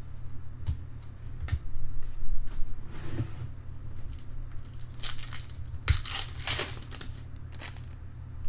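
Foil wrapper of a trading-card pack crinkling and tearing open, with a few light clicks and taps from the cards being handled; the crinkling is loudest in a cluster of bursts past the middle.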